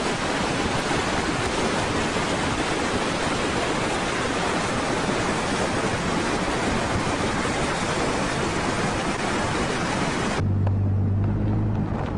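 Loud steady rushing of wind buffeting the microphone on a moving vehicle at speed. It cuts off abruptly about ten seconds in, leaving a low steady engine hum.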